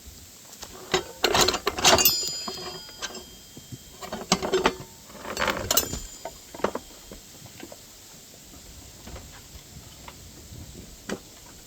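Metal parts clattering and clinking as they are handled during a mini bike build. There are two bursts of rattling clicks with short metallic rings, then a few scattered light clicks.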